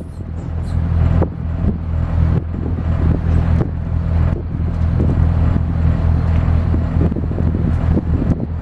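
Twin diesel engines of a Hatteras 53 motor yacht running steadily underway, a deep, even drone, with wind buffeting the microphone in short gusts.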